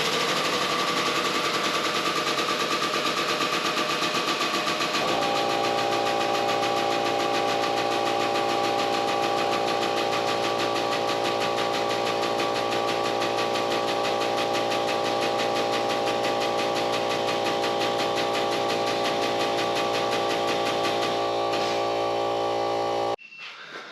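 Small 1-horsepower, 3-gallon Craftsman oil-free air compressor running continuously with a fast, even pulse, building pressure to feed the air-over-hydraulic tube bender. A steady hum joins it about five seconds in, and the sound cuts off suddenly near the end.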